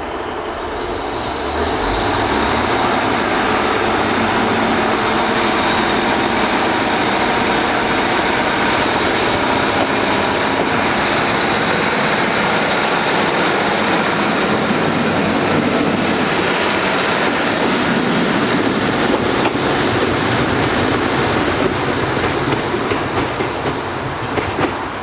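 Class 150 Sprinter diesel multiple unit departing, its diesel engines under power with wheel-on-rail noise. The sound swells about two seconds in and then holds steady, with a few clicks near the end.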